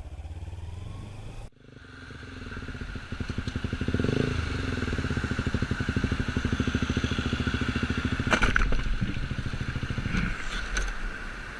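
Quiet road noise cuts off abruptly, then a motorcycle engine runs with an even, fast beat, picking up over a couple of seconds and holding steady. Brief clicks come about eight and ten seconds in.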